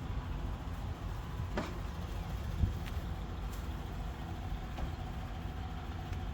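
Heavy diesel truck engine idling with a steady low rumble, with a sharp click about one and a half seconds in and a dull thump a second later.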